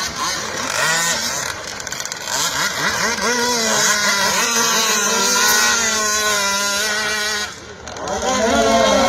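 Small two-stroke engines of radio-controlled Thai long-tail racing boats running and revving, their pitch rising and falling, with a brief drop in level a little before the end.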